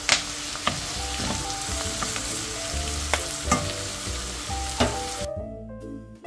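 Garlic scapes sizzling as they stir-fry in oil in a nonstick wok, with a few sharp knocks of the wooden spatula against the pan. The sizzling stops about a second before the end, leaving soft background music.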